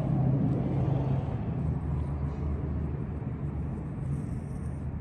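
A steady low rumble, slightly louder in the first second or so and then easing a little.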